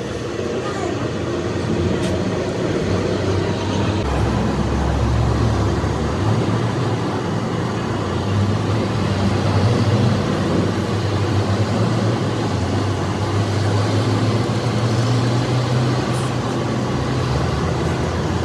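An engine running steadily, a constant low drone under a noisy wash, with a deeper rumble swelling for a couple of seconds about four seconds in.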